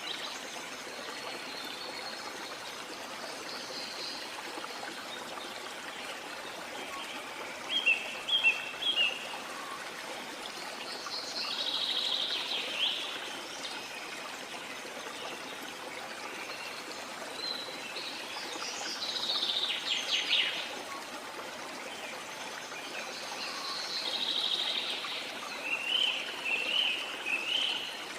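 Rainforest ambience: a steady rush of running water or rain, with birds calling over it in four separate bursts of high chirps and trills.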